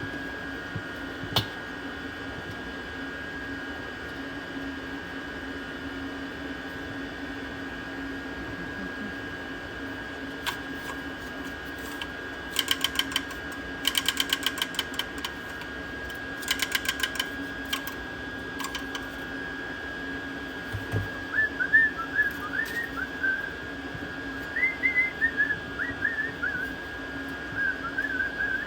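Steady mechanical hum with three short runs of rapid, even clicking partway through, then a string of short, bending whistled notes in the last several seconds.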